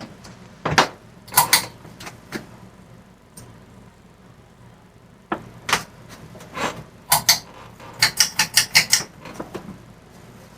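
Irregular sharp clicks and knocks over a faint steady low hum, with a quick run of about seven clicks in a second near the end.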